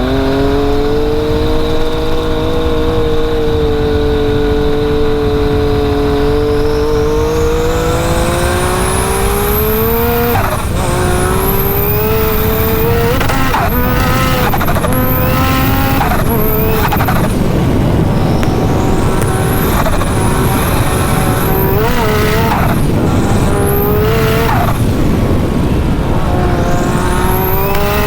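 Big-turbo Yamaha YXZ1000R three-cylinder engine under hard throttle: it runs steadily at first, then a high turbo whistle rises over several seconds. About ten seconds in it goes into a string of quick rev climbs, roughly a dozen. On each one the engine note and a high turbo whine rise together, then drop off sharply when the revs fall.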